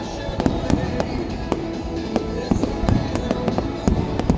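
Aerial fireworks going off in a rapid string of sharp bangs and crackles, about a dozen in a few seconds, over stadium music played along with the show.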